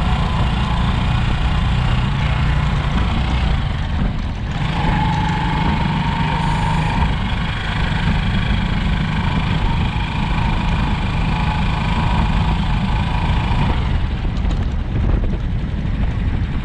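A vehicle engine running steadily while under way, with a heavy low rumble.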